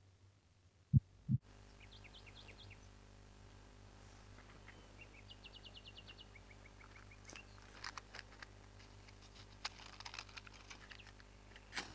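Two low thumps about a second in, then faint countryside ambience with small birds chirping in short repeated calls and trills. Scattered clicks and rustles follow in the second half.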